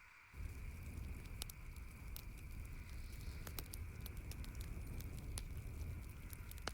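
Campfire crackling, with sharp pops scattered irregularly over a steady low rush. The level steps up abruptly just after the start.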